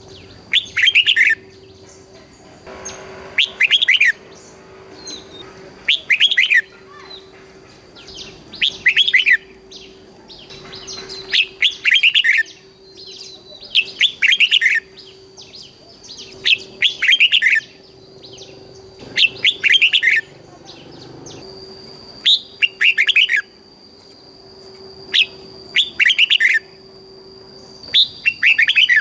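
Red-whiskered bulbul singing short, quick whistled phrases, one every couple of seconds and often two in close succession.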